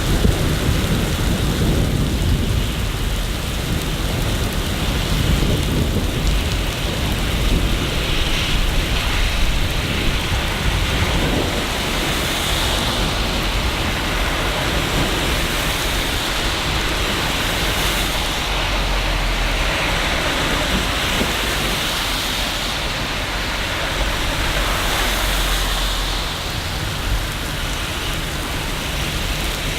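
Steady rain falling, with low rolling rumbles of thunder underneath, strongest near the start and again around the middle and later on.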